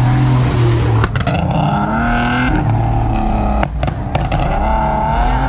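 Car engines running and revving, loud and steady, with a few sharp cracks.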